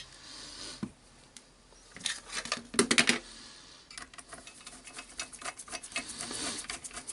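Small clicks and light rattling of metal parts and a screwdriver as a screw is fitted into a DeWalt DCS331 jigsaw's shoe-angle mechanism. There is a cluster of louder clicks about two to three seconds in, then fast, even ticking.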